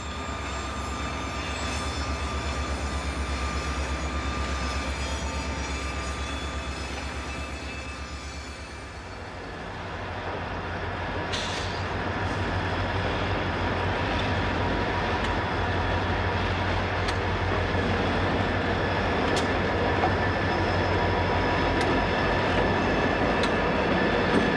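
Diesel freight locomotives moving slowly, engines rumbling with a steady throb. About nine seconds in, this changes to a passing freight train: a steady rolling rush with a thin steady wheel squeal and a few scattered clicks of wheels over rail joints.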